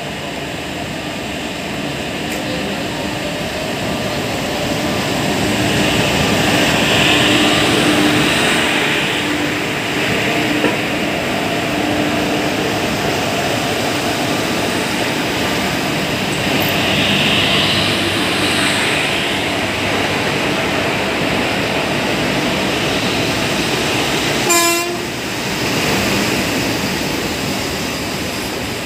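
Train running, heard from an open coach door while passing trains on the next track: steady rumble of wheels on rail and rushing noise, swelling twice, with a brief horn toot about 25 seconds in.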